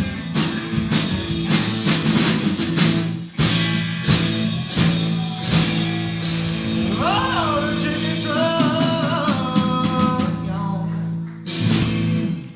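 Live rock band with drums, bass and electric lead guitar playing a song's ending: steady drum hits, then a long held final chord with high sliding notes over it and a closing hit just before it stops.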